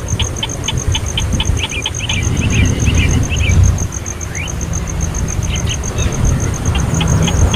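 A baby bird cheeping rapidly, about four to five short chirps a second, the cheeps breaking into twittering squeaks, then pausing for a few seconds and starting again near the end. Under it runs a low rumble, with a steady high-pitched ticking.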